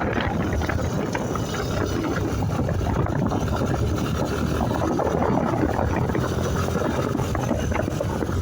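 Motorcycle engine running while riding, mixed with a steady rush of road and wind noise and many small knocks and rattles.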